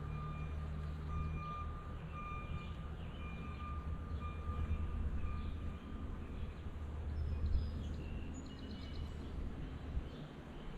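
Vehicle reversing alarm beeping about twice a second over a low engine rumble; the beeping stops about seven seconds in. A few high chirps follow near the end.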